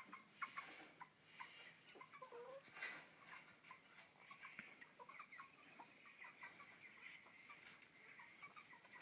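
Faint, busy chattering of Australian king parrots: many short chirps and soft squawks, mixed with small clicks.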